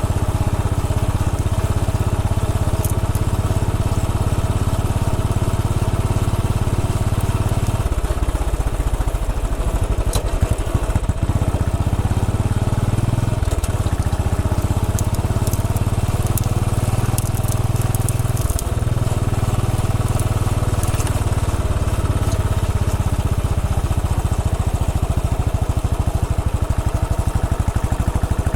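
Royal Enfield Bullet 500's single-cylinder engine running steadily under way, with its note changing about 8 seconds in and briefly dipping twice, around 13 and 18 seconds in. Scattered crackling clicks come through in the middle stretch.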